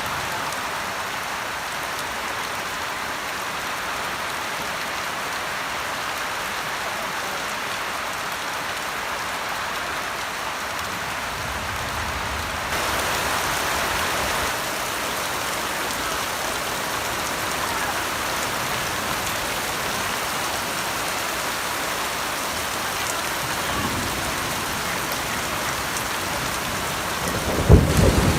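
Heavy rain falling steadily, with a loud clap of thunder near the end.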